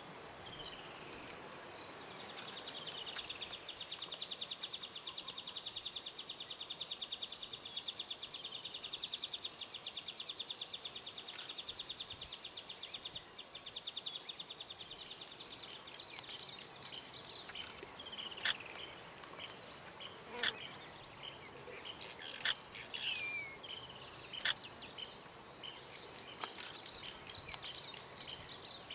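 Wild bush sounds: a high, fast pulsing insect buzz from about two seconds in until about halfway, then a series of short bird chirps and falling whistles.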